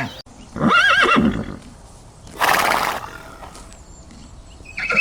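Animal calls: a short wavering call about a second in, a brief breathy noise burst around the middle, and another call starting near the end.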